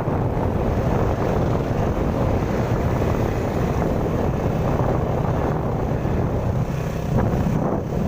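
Road traffic: vehicle engines running with a steady low rumble, with wind buffeting the microphone.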